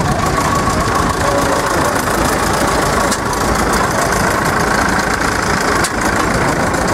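Old 1930s stationary petrol engine running steadily at a loud, even idle.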